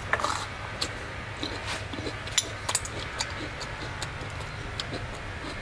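Eating sounds: a bite into a raw cucumber spear followed by crunchy chewing, heard as a string of short irregular clicks and crackles over a steady low hum.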